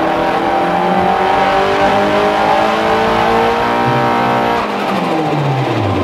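Turbocharged SR20DET four-cylinder engine of a Nissan 240SX pulling steadily up through the revs under load on a dyno. About four and a half seconds in it lifts off, and the revs fall away quickly.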